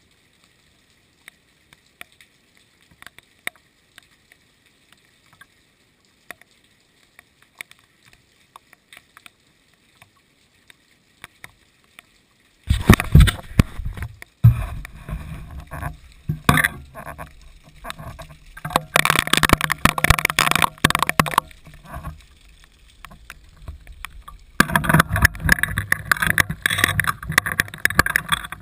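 Rain: scattered single drops ticking at first. About halfway through, a loud, uneven noise with a heavy low rumble and hiss cuts in suddenly. It eases briefly and then returns near the end.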